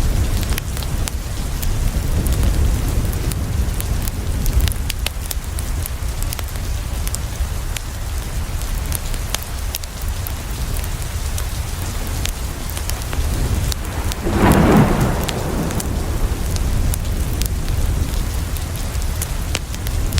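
Steady heavy rain with a low rumble underneath and scattered sharp ticks of drops. About fourteen seconds in, a louder rumble swells for a second or so and fades.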